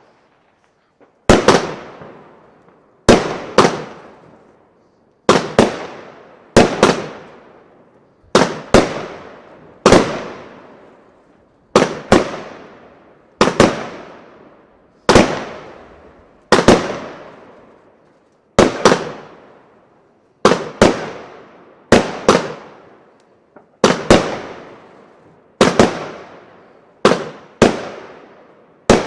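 Argento Feronia fireworks battery firing shot after shot. There is a sharp bang about every one and a half to two seconds, some coming in quick pairs, and each one trails off over a second or so.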